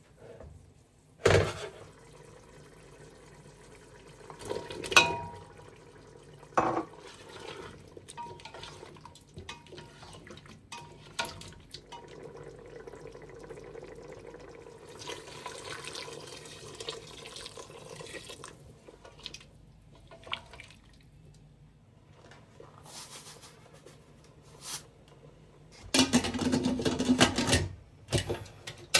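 Kitchen work at a sink: dishes and utensils knock and clink a few times, and water runs from a tap in stretches, loudest for a couple of seconds near the end.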